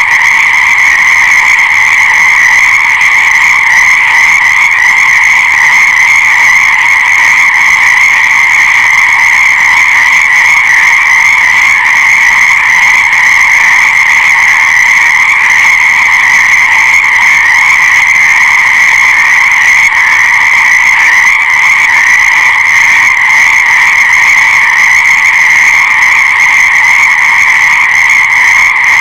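A dense chorus of many frogs calling at once, blending into a loud, steady, unbroken din with no pauses.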